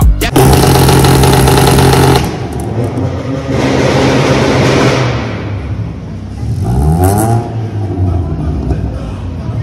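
Lada hatchback's engine revving hard: held high for about two seconds, revved again a little later, then blipped once more with a quick rise in pitch.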